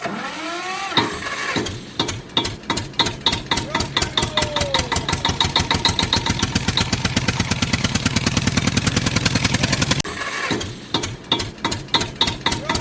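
Tractor engine sound starting and chugging, its firing beats quickening into a fast steady run. About ten seconds in, the same recording starts over from the beginning.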